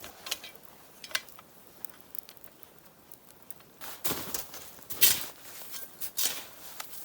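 Footsteps crunching in wet snow: faint scattered crackles at first, then heavier crunches about once a second from about four seconds in, like slow trudging through deep snow.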